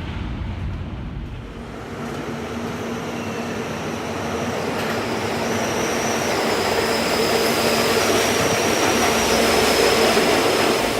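A train running, its rumble growing steadily louder through most of the stretch, with high, thin whining tones that come and go.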